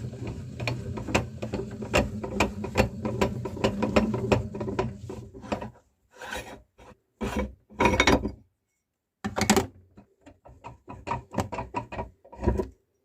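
Meat grinder crushing almond biscuits: a dense run of crunching and cracking over a low steady hum. About six seconds in it breaks up into short separate bursts, which stop near the end.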